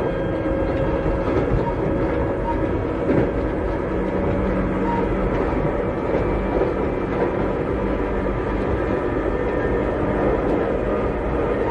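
Running sound inside a Keikyu 600 series (second generation) car, with its Toyo Denki electrical equipment, at steady speed. A steady motor and gear hum sits over wheel-on-rail noise, and a rail joint clacks about three seconds in.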